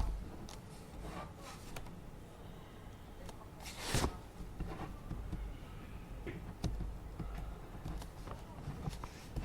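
Office desk work: scattered light clicks and knocks, with one louder rustle of handling about four seconds in, over a steady low hum.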